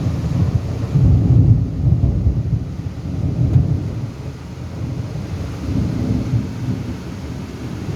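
Thunder rumbling, swelling about a second in and easing after a few seconds, over steady rain.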